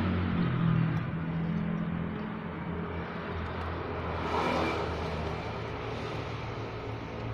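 Road traffic: motor vehicle engines running steadily, with a swell of passing-vehicle noise about four and a half seconds in.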